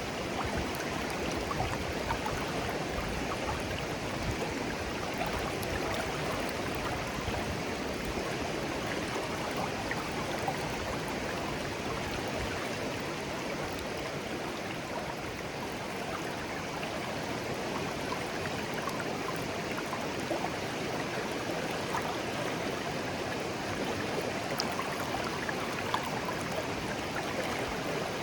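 Shallow, clear stream flowing steadily over stones, a continuous babble of running water with small splashes and trickles.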